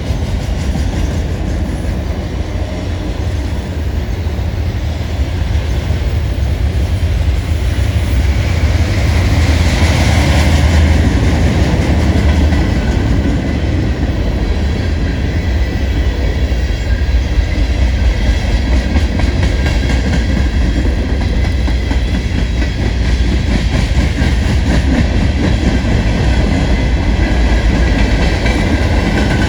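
Long manifest freight train rolling past: a steady rumble with wheels clicking over rail joints, and a faint high wheel squeal joining about a third of the way in.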